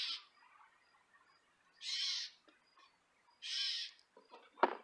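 A bird calling over and over, a short call about every second and a half, three times in all. Near the end, a single sharp knock, the loudest sound here.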